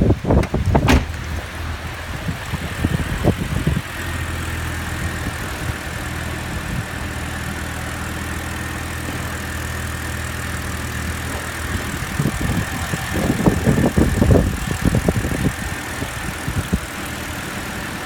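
BMW N52 3.0-litre petrol straight-six idling steadily while being run for an engine test, with a faint steady high whine. A few knocks and thumps near the start and again about two-thirds of the way through.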